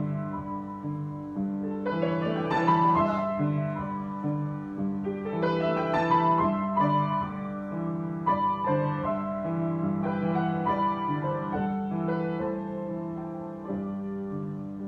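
Solo piano improvisation: sustained low chords held under a slow melody, with new phrases struck every few seconds.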